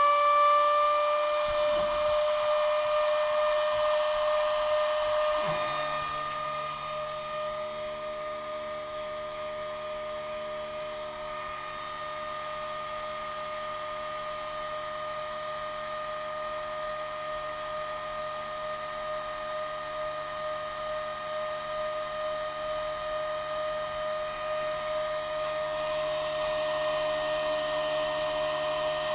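Homemade Arduino CNC machine with A4988 stepper drivers running, its motors giving a steady whine of several fixed pitched tones. About six seconds in, the level drops slightly and lower tones join; it rises again near the end.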